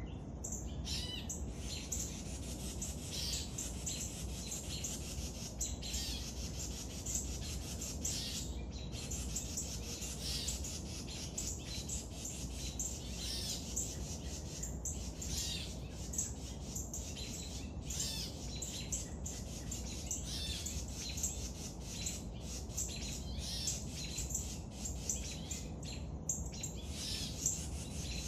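Birds chirping: a continuous stream of short, high calls, over a steady low background noise.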